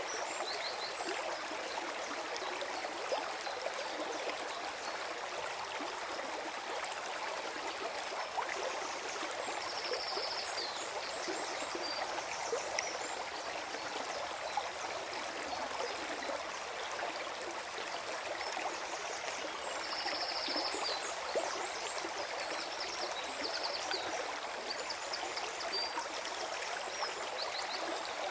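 Forest stream flowing and gurgling steadily, with brief high chirps a few times over the water.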